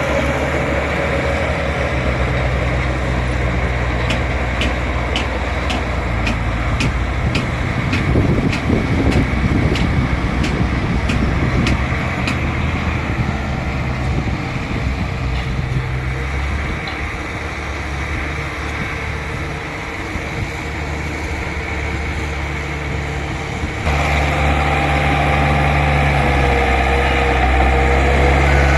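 Bulldozer's heavy diesel engine running steadily. For several seconds a light, regular clicking runs at about two to three a second. Near the end the engine sound jumps suddenly louder.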